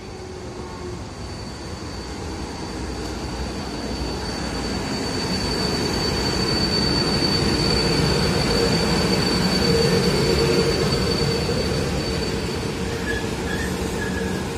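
Freight train hauled by a Siemens Vectron electric locomotive, with empty container flat wagons, rolling into the station alongside the platform. The rumble of wheels on rail grows louder as it draws level, with a steady high-pitched squeal that fades out near the end.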